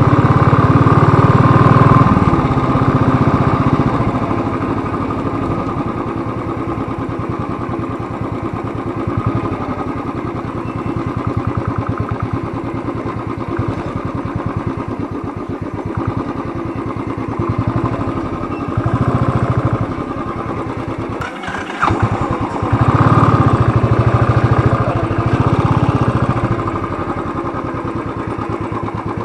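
Motorcycle engine running as the bike is ridden, its sound swelling and easing with the throttle, with a brief dip about two-thirds of the way through before it picks up again.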